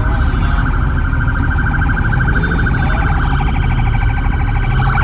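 A siren sounding in a fast, steady warble over a heavy low rumble.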